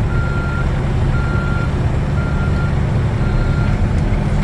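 Water truck reversing: its backup alarm beeps four times at an even pace, about once a second, over the engine running steadily.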